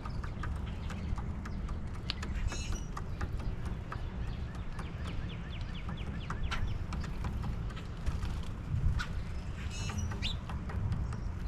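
Backyard birds chirping and calling, with a quick trill of about a dozen short notes around five seconds in, over a steady low rumble.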